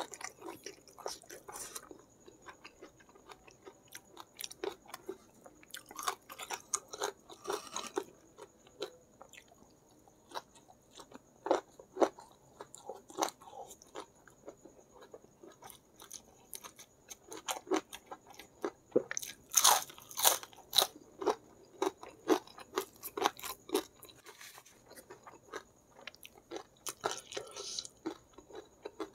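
Close-up chewing and crunching of food: irregular crunchy bites and wet chewing, loudest in a cluster about two-thirds of the way through.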